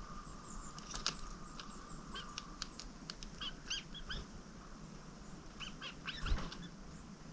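Small songbirds calling: short, high chirps in two quick bunches, the first about two seconds in and the second near the end, mixed with a few sharp taps.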